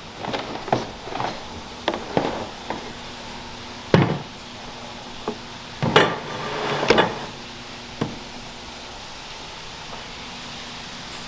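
Parts of a Starlink satellite internet kit and their packaging being handled and set down on a table: a run of clicks, knocks and rustling scrapes, the loudest knocks about four, six and seven seconds in.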